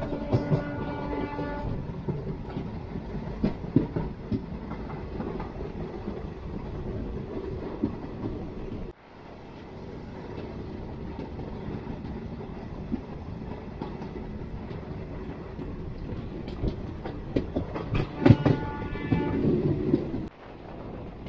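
Passenger express train running on the track, wheels clicking over rail joints, while the locomotive sounds its horn, once in the first two seconds and again about 18 seconds in.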